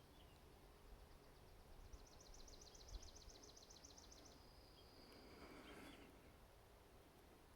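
Faint woodland quiet with a small songbird singing one rapid, high trill of evenly repeated notes, about two seconds long, a couple of seconds in, followed by a brief fainter call.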